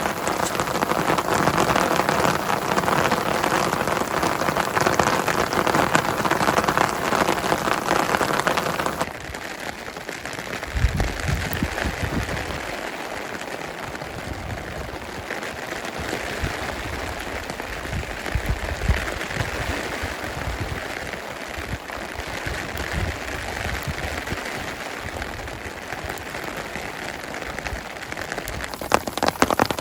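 Heavy rain pattering steadily. About nine seconds in it drops abruptly to a softer rain sound with irregular low rumbles underneath, then grows louder again just before the end.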